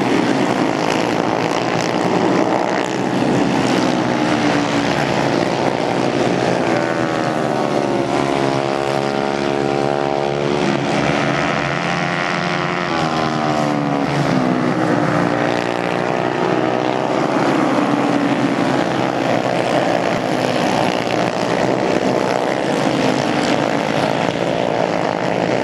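Several racing motorcycle engines running hard together, their pitch rising and falling as the riders accelerate, shift and back off around the track.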